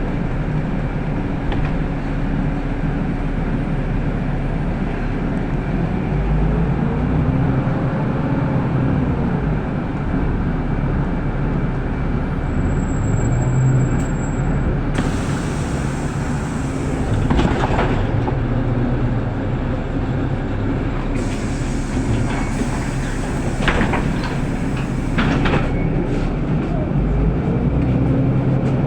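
Inside a city bus: steady running noise from the drivetrain and road, with the motor's pitch rising and falling twice as it speeds up and slows down, and a few sharp rattles from the body about two-thirds of the way through.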